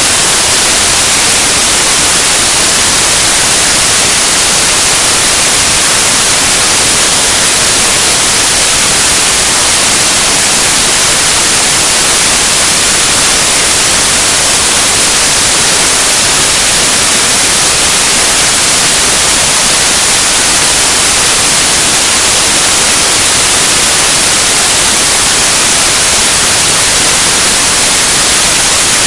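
Loud, steady hiss like radio static that never changes, with no engine, voice or other sound heard through it.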